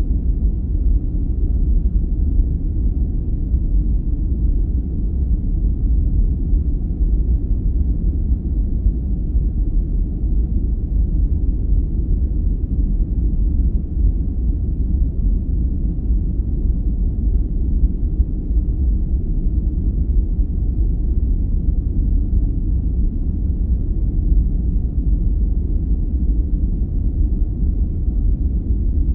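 Steady, unchanging deep noise sleep track, a low rumble with no bright hiss on top: a muffled, brown-noise-like version of the sleep-inducing 'white noise'.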